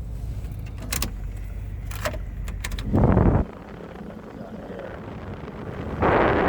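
Clicks of the dashboard climate controls in a 2001 Ford F-250 Super Duty, then the air-conditioning blower pushing air out of the vents: a short rush about three seconds in and a louder, sustained one from about six seconds in, the air hitting the microphone.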